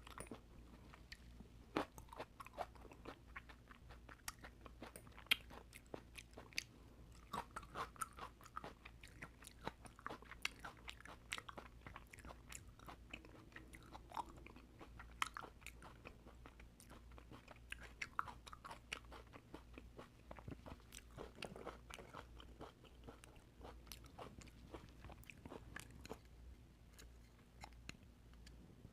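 Close-miked chewing and wet mouth sounds of a person eating oysters, with many quick, irregular smacks and clicks.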